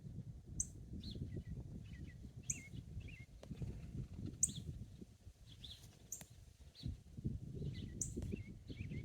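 A songbird singing a short phrase, a sharp high note and then a few lower warbling notes, repeated about every two seconds. A steady low rumble of wind on the microphone runs beneath it and is the loudest part.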